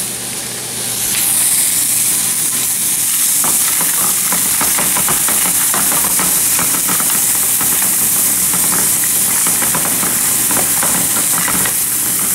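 Frozen peas sizzling loudly in a frying pan of hot oil and onions, the hiss swelling about a second in as they hit the oil. From a few seconds in, a spatula stirring them adds a run of quick clicks and scrapes.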